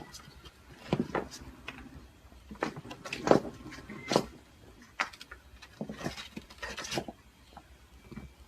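A series of short, sharp knocks and clatters, irregularly spaced, the loudest about three seconds in.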